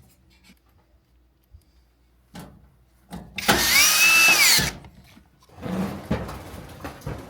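A cordless drill/driver runs briefly, for a little over a second: its motor whines up to speed, holds and winds down, as if driving a screw. Softer handling noise follows.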